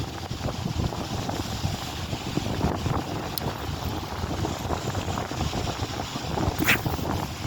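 Strong wind buffeting the microphone, a continuous fluttering low rumble. A short high hiss cuts through once near the end.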